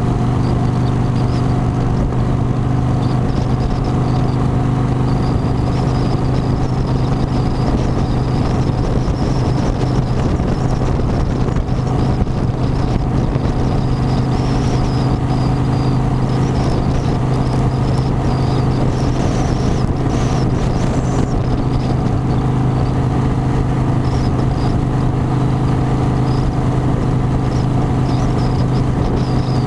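Harley-Davidson motorcycle's V-twin engine running at a steady speed, an even drone with no change in pitch.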